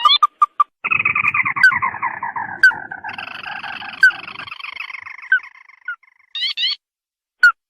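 Crake lure call: a long chattering run of rapid notes sliding down in pitch, punctuated by a few sharp clicking notes, then short quick rising notes near the end.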